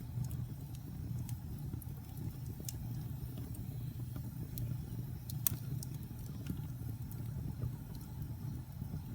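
Wood fire burning in a fireplace: a steady low rumble of the flames with scattered sharp crackles and pops, the loudest pop about five and a half seconds in.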